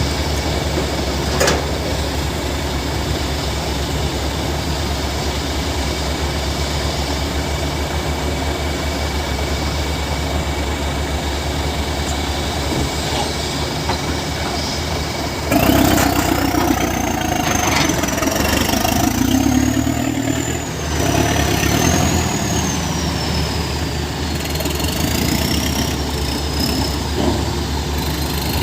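Heavy diesel engine of a Tata Hitachi excavator running steadily. About halfway through the engine gets louder and a high-pitched whine rises, then wavers up and down in pitch for the rest of the time.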